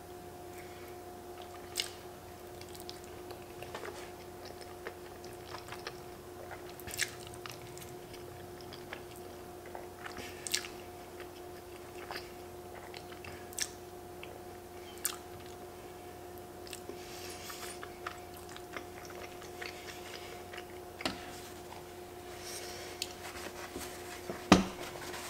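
A person chewing mouthfuls of creamy fettuccine alfredo close to the microphone, with scattered wet mouth clicks, over a steady hum. A sharp knock near the end is the loudest sound.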